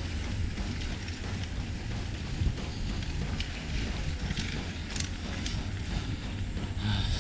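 Wind buffeting the microphone as a steady low rumble, with a few short clicks or rattles.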